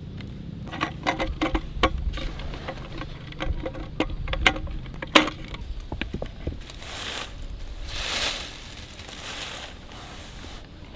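Camp-cooking handling noises: a quick run of small knocks and clinks for the first few seconds, then a few soft rustling rushes.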